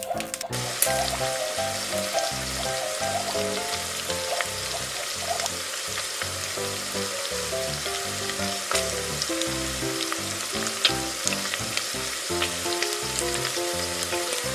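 A steady frying sizzle sound effect switches on about a second in, standing in for food frying in the toy pan. A few light plastic clicks and scrapes of a toy spatula stirring come through it. Cheerful background music plays underneath.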